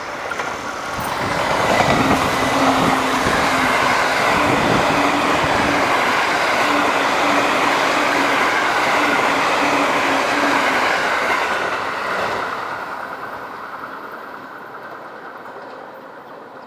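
Train passing: the E493 series two-car electric unit hauling a ten-car E231 series 800 set. The sound swells about two seconds in, holds steady with an even, repeating clatter of wheels over rail joints, then fades away over the last few seconds.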